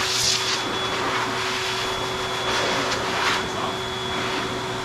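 AIIYME 4.3 HP / 3200 W high-velocity dog grooming dryer running steadily: a rushing blast of air with a constant motor whine, the hiss swelling briefly twice.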